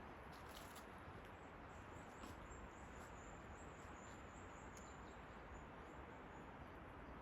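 Quiet forest ambience: a steady low hiss, with a faint, thin, high-pitched trill from about two seconds in to about five seconds in, and a few faint ticks near the start.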